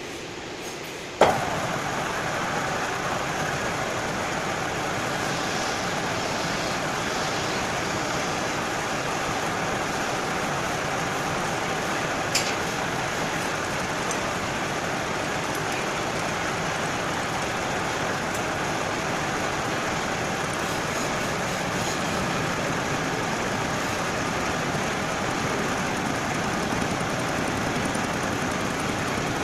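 Metal lathe running steadily while facing a steel part, a constant machine noise that starts suddenly with a click about a second in. A single sharp click comes about twelve seconds in.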